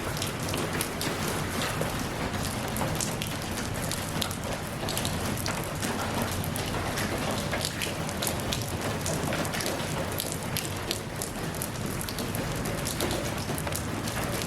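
Steady rain falling, with a constant hiss and many close individual drops pattering on a surface.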